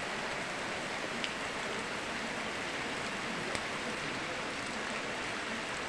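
Steady rain falling, blended with running river water, with a few sharp ticks of single drops.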